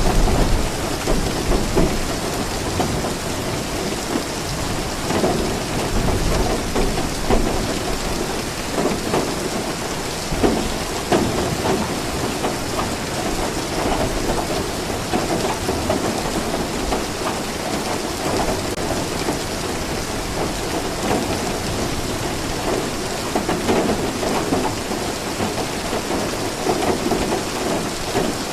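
Steady heavy rain falling, with low rumbles of thunder near the start and again about five seconds in.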